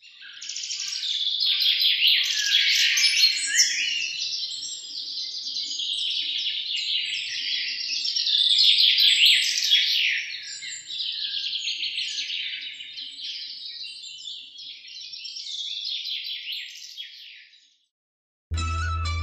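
A chorus of many small birds chirping and twittering over one another, fading away about seventeen seconds in.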